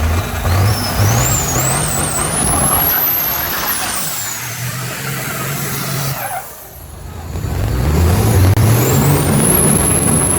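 Big truck engine accelerating hard with a rising high-pitched whistle over its note; the sound drops off about six seconds in, then builds again into a second hard pull with the whistle climbing once more.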